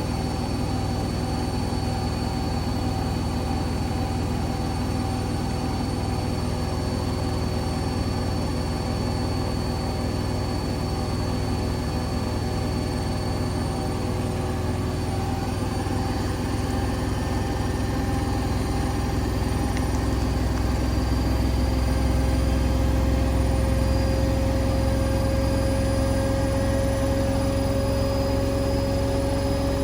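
Hoover Link washing machine spinning at full speed, 1400 rpm: a steady motor and drum hum with a whine over it, which grows a little louder and slightly higher about two-thirds of the way through.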